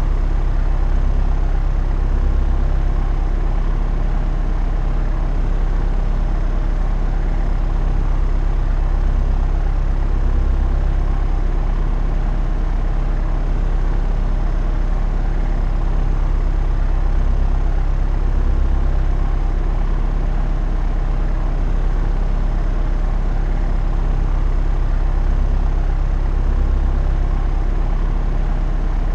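Propeller aircraft engine and propeller droning steadily in cruise flight, a deep hum with a slow, regular swell in the lowest tones every few seconds.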